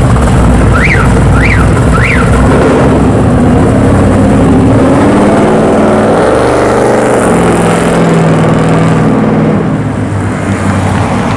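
Ford Mustang GT V8 running loud through a Dynomax aftermarket exhaust, its pitch rising and falling as it revs and pulls. Three short high chirps sound about a second in.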